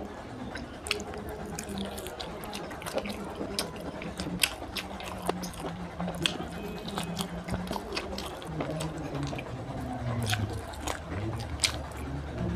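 Close-miked chewing and biting of curried meat eaten by hand, with wet mouth sounds and many irregular sharp clicks.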